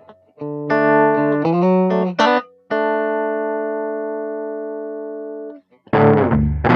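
Guitar intro to a song: a few strummed chords, then one chord left ringing for about three seconds as it slowly fades. Near the end a fuller band with a distorted guitar comes in loudly.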